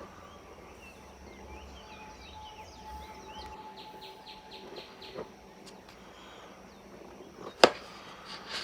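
Small birds chirping faintly in the background, with one sharp click near the end.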